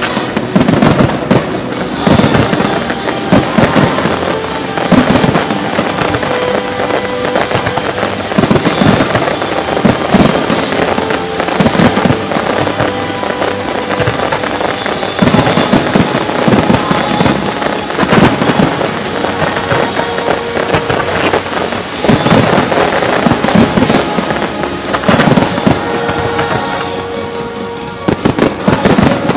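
Aerial fireworks display: shells bursting with repeated booms and crackling, coming in clusters every few seconds, with music playing underneath.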